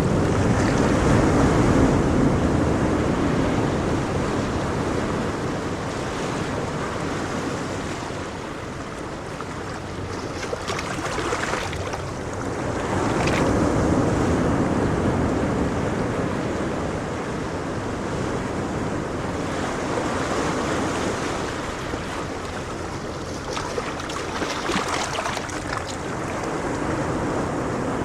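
Ocean waves breaking and washing on a shore, rising and falling slowly in loudness, with wind buffeting the microphone.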